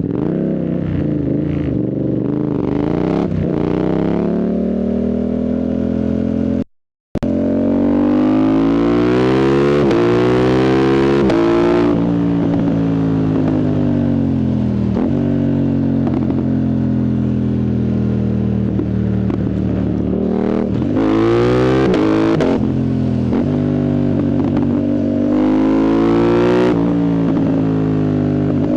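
Yamaha MT-07's CP2 parallel-twin engine, through a full exhaust with the dB killer removed, pulling hard through the gears: the pitch climbs and drops sharply at each quickshifter upshift, again and again. The sound cuts out completely for a moment a little under 7 seconds in.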